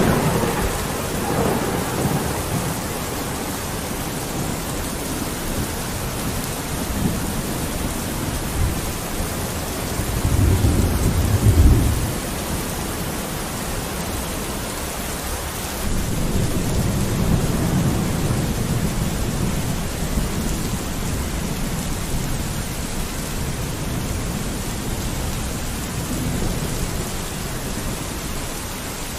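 Steady rain on a window, with rolls of low thunder. The loudest rumble comes about ten to twelve seconds in, and another long roll starts at about sixteen seconds.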